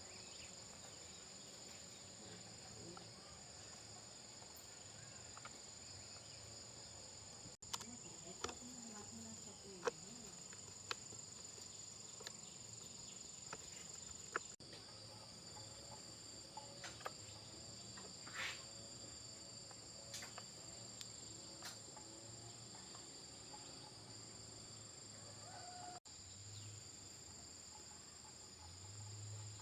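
Insects chirring steadily, a high continuous drone of crickets, with a few faint sharp clicks and taps scattered through.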